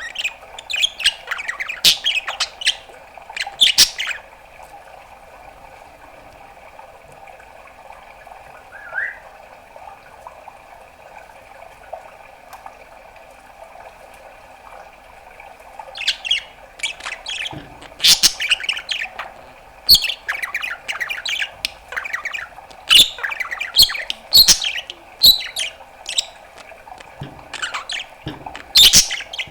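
Pet budgerigar chattering with quick chirps, squawks and clicks for the first few seconds, then a lull of about twelve seconds broken by one short rising chirp, then busy chattering again from about sixteen seconds on. A steady hum sits underneath throughout.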